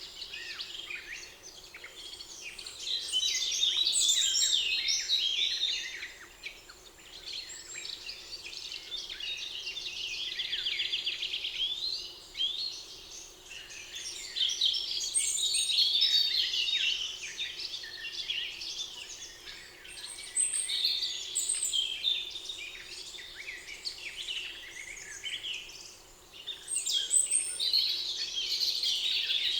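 Several songbirds singing and chirping at once in a spring forest, a dense chorus of quick warbles and trills with brief lulls.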